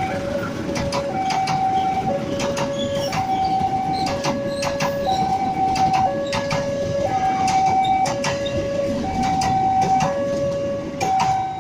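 A passing train's wheels clacking over the rail joints. Over it a level-crossing warning sounds, an electronic two-tone alarm that alternates high and low about once a second.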